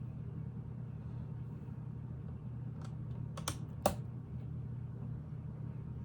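Plastic Lego pieces clicking as they are handled and fitted together: a few sharp clicks around the middle, the last one loudest, over a steady low hum.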